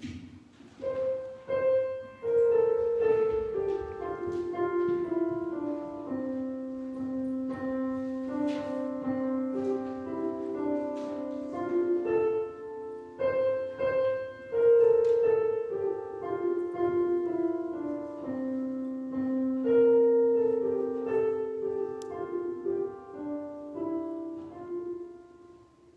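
Solo piano playing a slow melody of sustained notes; the same phrase starts over about halfway through.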